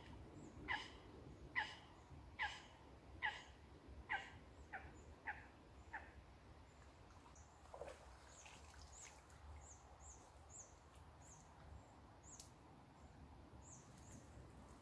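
Birds calling: about eight short, falling calls, one every second or so, through the first half. Then higher, thin chirps follow in quick succession.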